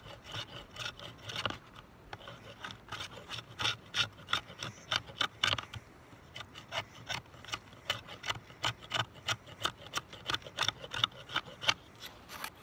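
Cold Steel pocket knife blade shaving and scraping along a piece of wood in quick repeated strokes, about three or four a second, carving it into a fireboard for a friction fire.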